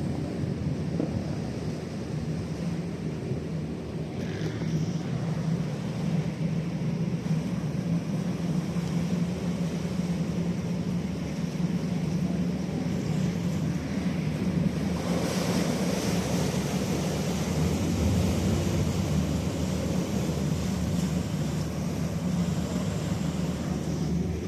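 Boat engine running steadily with a low hum, over water and wind noise; it grows louder and rougher about fifteen seconds in.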